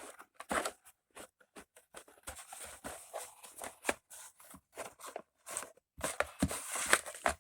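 A VHS tape and its plastic case being handled: irregular small clicks, taps and rustles, with a louder bout of rustling near the end.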